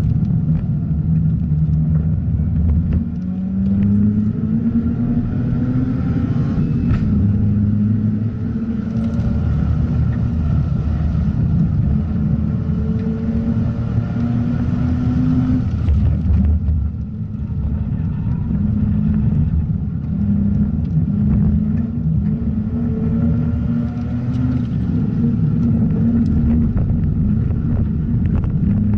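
Mazda RX-8's twin-rotor Renesis rotary engine running hard under load on track, its pitch climbing through the revs and stepping down at gear changes several times. It backs off briefly about two-thirds of the way through before pulling again.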